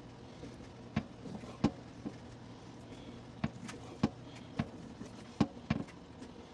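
Kitchen knife chopping raw chicken thighs on a cutting board: sharp, irregular knocks of the blade hitting the board, roughly one or two a second.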